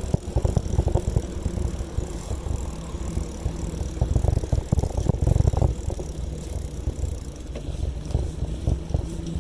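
A bicycle in motion: a steady low rumble with frequent small rattles and knocks.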